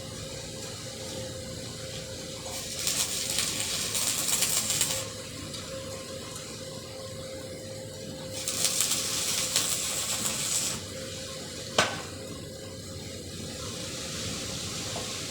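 Arc welding: the arc crackles and sizzles in two bursts of about two and a half seconds each, over a steady hum, with one sharp click near the end.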